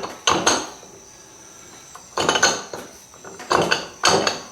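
Metal tools and hub parts clanking and clinking against each other in a few short clusters, with a quieter gap between, as a pre-war Rolls-Royce rear wheel hub is worked on by hand.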